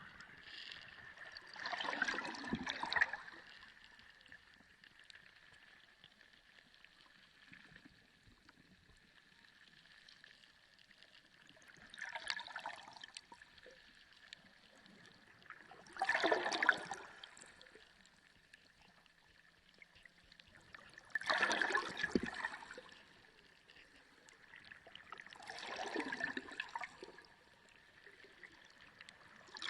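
Sea water heard underwater, rising in gurgling surges at irregular intervals of a few seconds, each lasting a second or two, with quieter stretches between and a faint steady high tone underneath.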